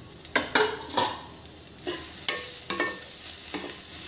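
Onions and green chillies sizzling in hot oil in a nonstick wok. A steel perforated spoon stirs them, scraping and knocking against the pan about eight times. The sizzle grows louder from about two seconds in.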